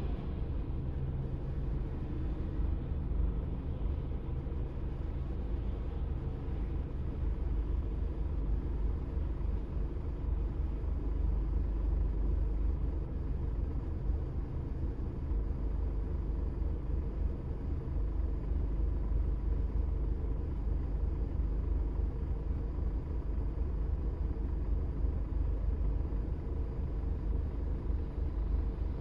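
A car driving at a steady speed: an even, low rumble of engine and road noise.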